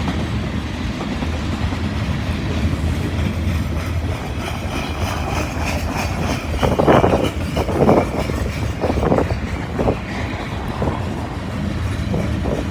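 Freight cars of a long mixed manifest train rolling past, wheels clicking over the rail joints over a steady low rumble, with a run of louder clatters about halfway through.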